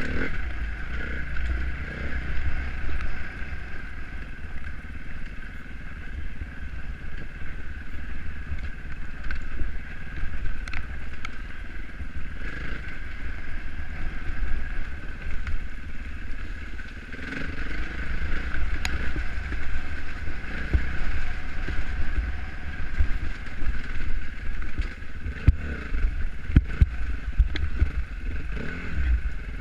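Off-road motorbike ridden along a dirt trail, its engine held at fairly steady, low revs under heavy wind rumble on the microphone. There are scattered knocks and clicks from the bike over rough ground, and the engine revs rise and fall briefly a little past halfway.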